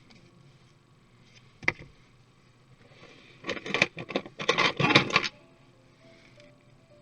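Laptop parts being handled during disassembly: a single sharp knock, then a dense flurry of clicks and scrapes for about two seconds in the middle, as of plastic casing and small parts.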